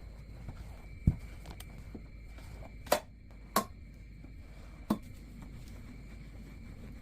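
Four sharp knocks of hard objects against each other or a surface, about a second in, near three seconds, just after, and near five seconds, over a faint steady hum.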